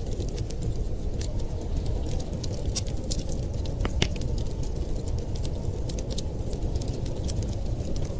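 Wood fire crackling, with frequent small sharp pops and one louder pop about halfway through, over a steady low rumble.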